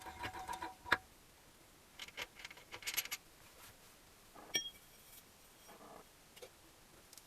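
Metal engine parts clinking and tapping as they are handled during engine assembly, in irregular clusters. One sharp metallic clink about four and a half seconds in rings on briefly.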